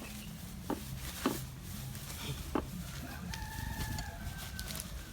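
A rooster crowing once, a long call of about a second and a half starting about three seconds in. A few short sharp knocks come before it, over a low steady hum.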